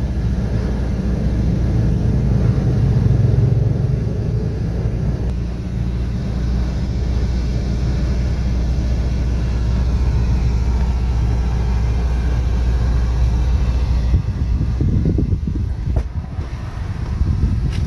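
Car engine idling, heard from inside the parked car's cabin as a steady low rumble. The rumble eases slightly near the end, with a few short knocks.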